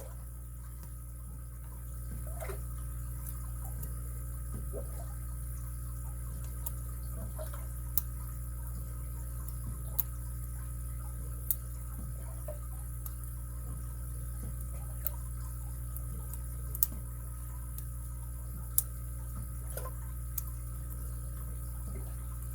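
Small sharp clicks, spaced a second or two apart, from a lock pick and tension wrench working the pin stack of a padlock being picked, over a steady low hum.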